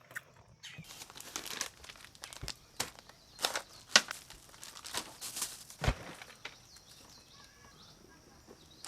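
A foil snack bag crinkling as it is handled, in irregular crackles, with a soft thump about six seconds in.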